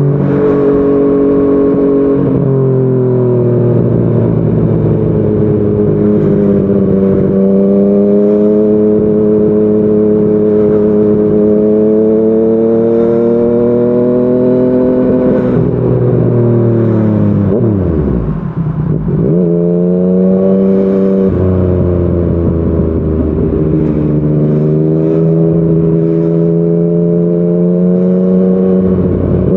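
Yamaha MT-09 inline three-cylinder engine through a Yoshimura R55 slip-on exhaust, ridden under steady throttle with gear changes. The engine pitch climbs slowly and drops at each shift. About two-thirds of the way through it falls steeply as the bike slows, then climbs again as it accelerates away.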